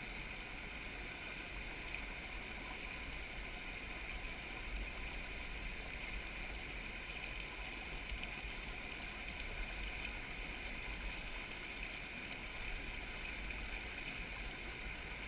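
Steady rush of a flowing creek, an even, unbroken water noise with a low rumble beneath it.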